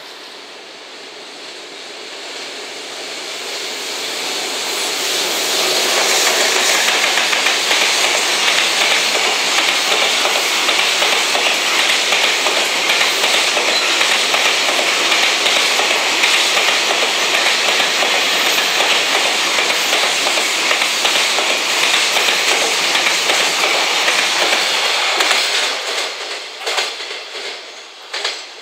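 Container freight train hauled by a JR Freight EF210 electric locomotive with 16 container wagons passing: steady rumble and clatter of wheels on the rails. It builds over the first few seconds, holds loud for about twenty seconds, then dies away with a few last clicks as the end of the train goes by.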